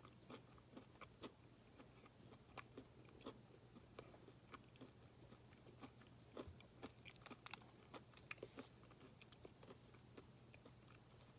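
Quiet, close-up chewing of a chewy granola protein bar with peanuts and chocolate chips: small, irregular wet clicks and crunches, with a faint steady hum underneath.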